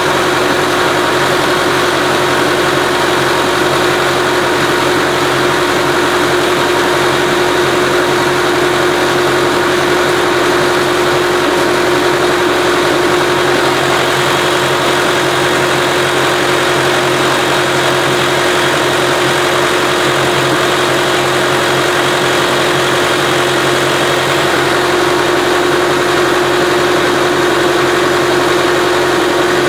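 Tractor engine running at a steady speed while driving a vertical turbine pump, with a steady whine over the engine noise.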